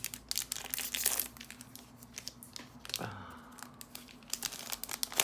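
Foil booster-pack wrapper of a Magic: The Gathering Double Masters 2022 draft booster crinkling and tearing as the pack is ripped open. The crackling is dense for the first second or so, then thins to scattered crackles.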